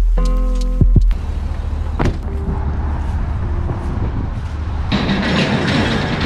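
Intro music ends abruptly about a second in, then a motor vehicle's steady low rumble with road noise, which grows louder and hissier near the end, with a single click about two seconds in.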